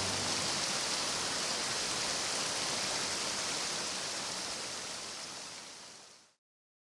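Mountain stream water rushing steadily, fading out over the last second or two and cutting to silence about six seconds in.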